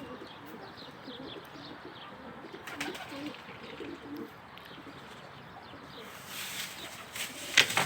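Domestic pigeons cooing, a low repeated warble for the first half, followed near the end by a few loud rustling bursts.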